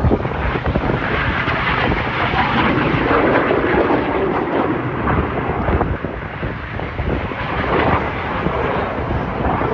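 Loud jet noise of Red Arrows BAE Hawk T1 jets flying past, swelling and easing.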